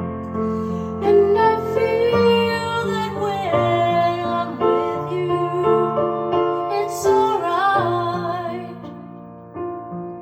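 Music: piano playing a slow ballad, with a melody line gliding above the chords.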